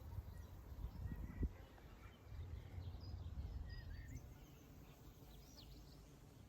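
Faint outdoor birdsong: scattered short chirps and whistles, one falling note near the end, over a steady low rumble with a couple of soft thumps in the first second and a half.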